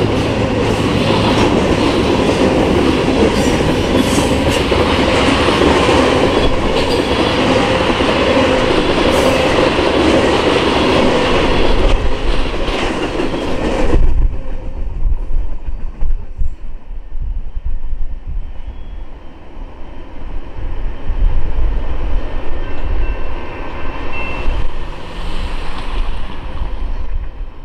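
Freight cars of a Norfolk Southern train rolling past close by: steady loud wheel and car noise with repeated knocks of wheels over rail joints. About halfway through the sound abruptly turns dull and heavy, a low rumble that swells and fades.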